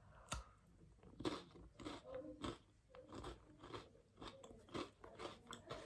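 Someone chewing crunchy food close to the microphone: a string of short, sharp crunches, about two a second.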